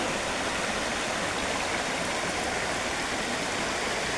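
Rushing water of a rocky rainforest creek, a steady even rush with no change.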